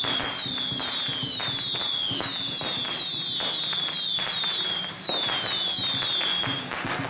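Firecrackers crackling densely alongside whistling fireworks, a string of overlapping high whistles that each fall in pitch, several a second, ending shortly before the crackle eases.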